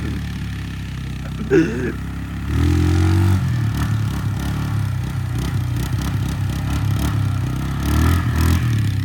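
An engine idling, then revving unevenly and louder from about two and a half seconds in.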